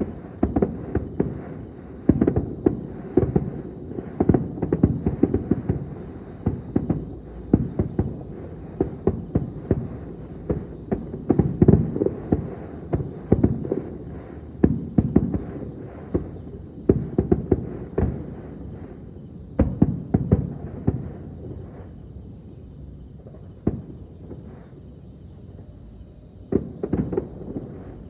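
Distant aerial fireworks bursting in a fast, irregular series of dull booms and crackles. The bursts thin out for a few seconds near the end, then pick up again. Insects chirp steadily and high in the background.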